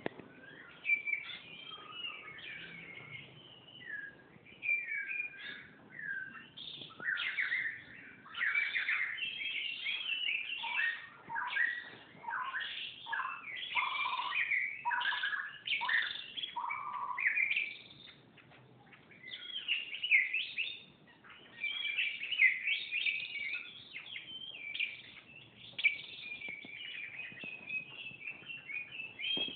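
Several songbirds of mixed species singing and chirping together in quick, varied warbles and whistles, with a short lull about two-thirds of the way in.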